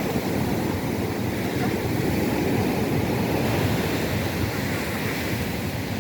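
Surf from a rough sea breaking and washing onto a beach: a steady rushing noise that swells a little midway.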